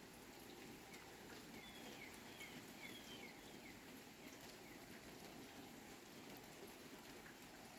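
Faint steady rain with scattered drips, and a bird giving a quick run of short high chirps about one and a half seconds in, lasting about two seconds.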